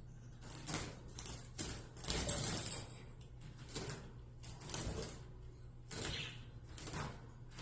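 Irregular knocks, rattles and rustles of hands working inside a wire bird cage while catching a parakeet, about a dozen short bursts spread through the stretch.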